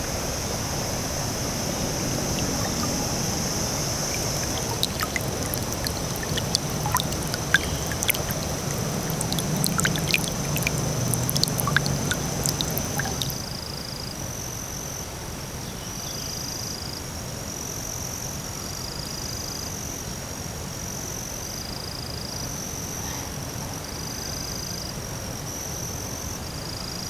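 Rain pattering and trickling, with scattered drips and a steady high insect drone over it. About halfway through the water sound drops away and night insects are left, chirping in short, evenly repeated pulses.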